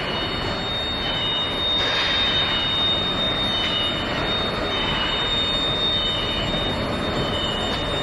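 Steel pipe induction annealing line running: a steady high-pitched whine over a constant rumbling, clattering noise, with a second, slightly lower whine that comes and goes every second or so.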